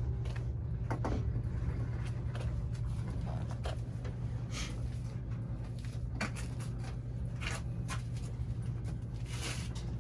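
A steady low hum, with scattered light knocks and brief rustles over it.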